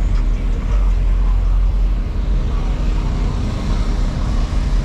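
Steady deep rumble of vehicle engines, with faint voices in the background.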